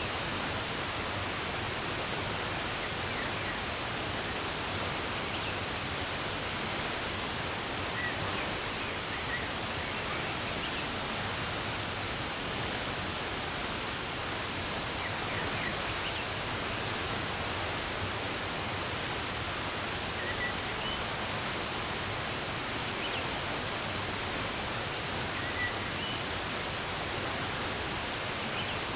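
Steady rush of running water. A few short, faint bird chirps stand out over it now and then.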